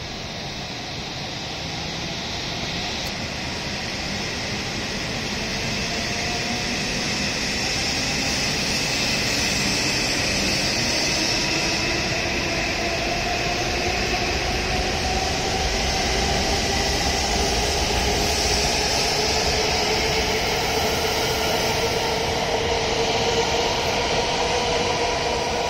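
A W7 series Shinkansen train departing and accelerating past, its traction motors whining in several tones that climb steadily in pitch as it gathers speed, over the rising rumble of its running gear.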